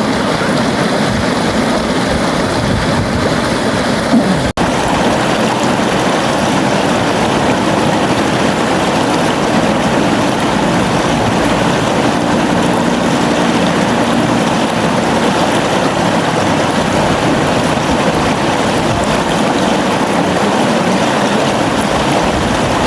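Steady rush of a flowing river, with a momentary break in the sound about four and a half seconds in.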